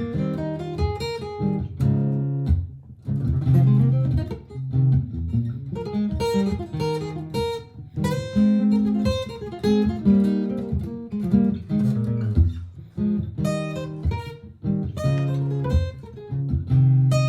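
Martin GPCPA4 acoustic guitar played through a looper pedal: a repeating strummed chord part with improvised picked notes over it.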